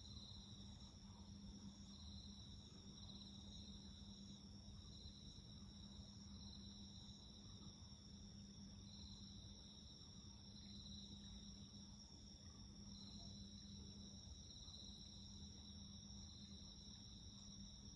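Crickets chirring faintly and steadily, a high trill swelling and fading about once a second alongside a second, steadier high-pitched trill, over a low steady hum.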